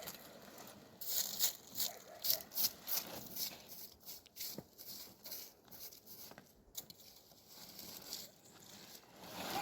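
A quick series of short rustling or scraping strokes, about three a second, starting about a second in, then fainter and sparser.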